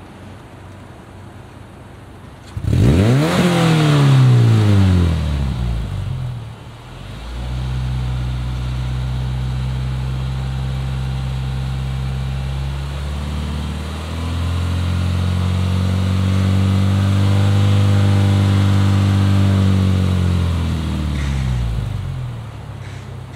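Subaru Impreza flat-four engine breathing through an aftermarket AVO catback exhaust, revved from idle: one quick blip about three seconds in, then a steady hold at raised revs, a climb to a higher steady hold, and a fall back to idle near the end.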